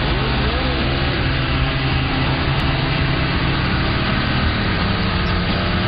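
Motorcycle engine running at a steady pitch, rising a little near the end.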